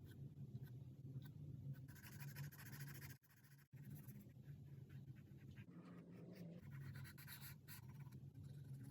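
Charcoal scratching and rubbing on paper in irregular strokes, over a faint low hum. The sound drops out briefly a little after three seconds in.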